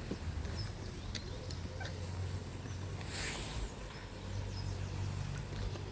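Faint, scattered high peeps of ducklings over a steady low outdoor rumble, with a brief hiss about three seconds in.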